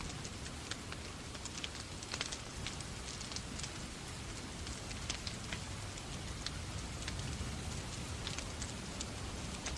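Wood fire crackling in a fireplace together with steady rain: a constant hiss and low rumble with frequent sharp, irregular pops.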